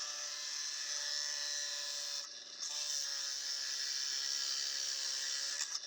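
Drill press running and boring a hole through the tooling block, a steady motor whine over cutting noise, with a brief let-up a little over two seconds in.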